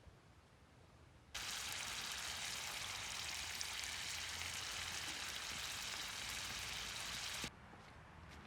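Meat sizzling in hot fat in a pan: a steady crackling hiss that starts abruptly about a second in and cuts off sharply near the end.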